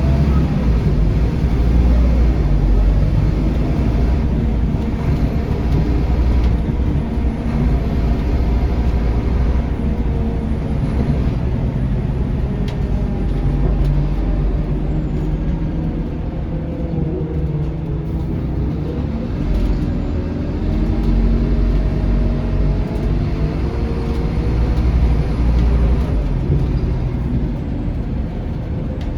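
Scania K230UB bus's five-cylinder diesel engine and drivetrain running on the move, heard from inside the bus, with a steady low drone. About halfway through the engine note falls, then rises again.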